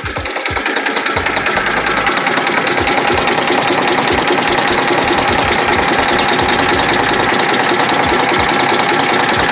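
Detroit Diesel Series 60 11.1 inline-six diesel idling rough with a rapid, even knock, growing louder over the first two seconds and then steady. It is running on only about two cylinders, the others not yet firing because of bad injectors.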